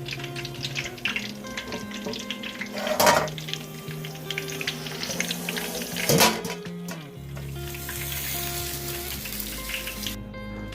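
Food frying in a pan, a steady hiss with crackles, over background music. There are two louder rushes about three and six seconds in, and the hiss cuts off near the end, leaving the music.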